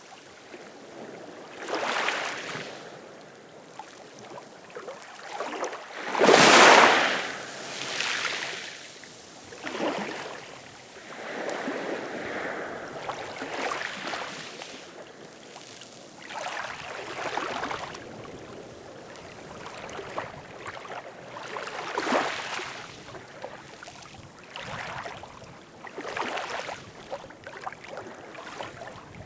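Ocean waves washing in, in a series of surges every few seconds, the biggest about six and a half seconds in.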